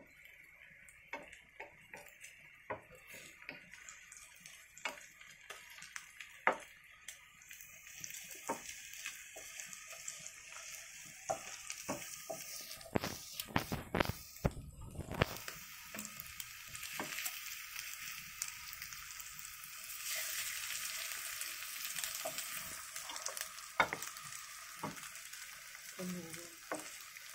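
Egg and chopped green beans sizzling in a nonstick frying pan while a wooden spatula stirs them, scraping and knocking against the pan many times. The sizzle gets louder partway through.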